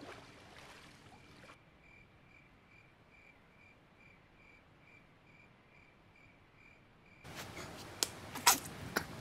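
Faint, regular high chirping, about two to three chirps a second, over near silence. About seven seconds in, outdoor ambience cuts in with cloth rustling and a few sharp knocks as a cloth hood is pulled off a man's head.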